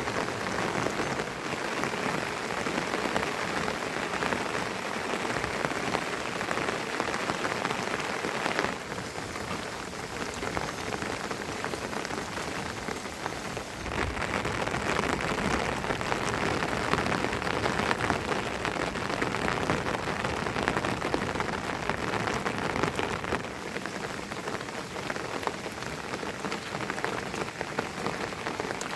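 Steady rain falling, a dense even patter of drops that eases a little for a few seconds near the middle.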